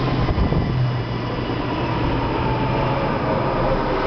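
NJ Transit train's stainless-steel passenger cars rolling past the platform as the train arrives: a steady rumble of wheels on the rails with a faint whine and a low hum.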